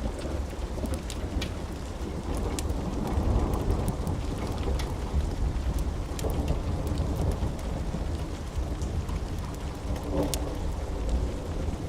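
Steady rain with a continuous low rumble of thunder, and scattered sharp pops and crackles of a wood fire throughout.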